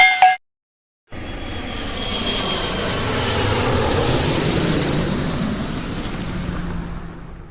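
A brief electronic blip, then a loud rushing engine noise that swells over a few seconds and fades away, like something passing by.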